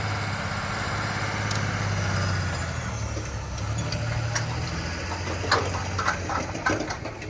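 Vehicle engine running steadily at a low idle, with a few sharp knocks or clicks in the second half.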